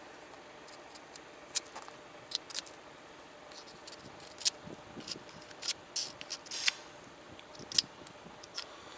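Footsteps crunching in snow: faint, crisp crunches at an uneven slow walking pace.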